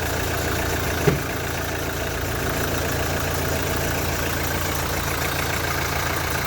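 A Renault Clio 4's 1.5 dCi diesel engine idling steadily, with one short knock about a second in.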